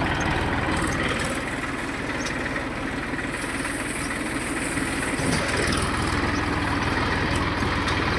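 Deutz-Fahr tractor's diesel engine running steadily, a little louder from about five seconds in.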